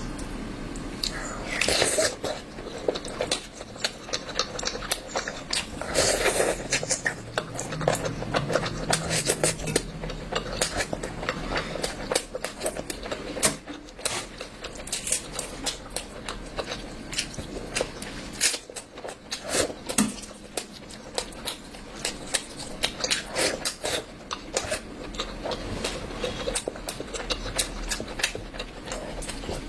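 A person eating curry, with wet chewing, lip smacking and mouth clicks coming irregularly, several a second.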